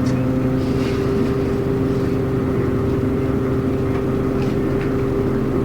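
Diesel route bus heard from inside the cabin, its engine humming steadily while under way, with a few faint ticks.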